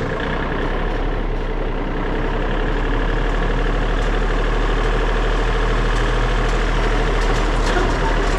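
Tractor engine running steadily, with a strong low rumble and an even hum.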